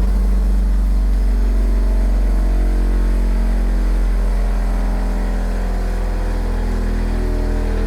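Electric bench grinder running steadily after being switched on, its motor giving a strong low hum, used to grind a tool bit flat on one side.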